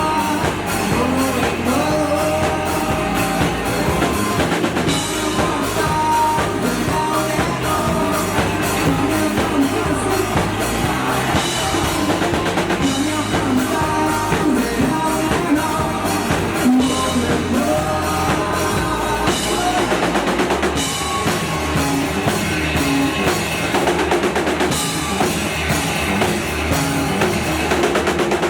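A rock band playing live, with a drum kit keeping a steady beat under electric guitars and a sung vocal line.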